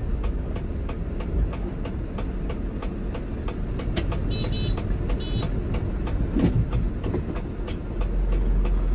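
A truck running, a steady low engine and road rumble with faint, rapid, even ticking through it and two short high beeps about halfway through.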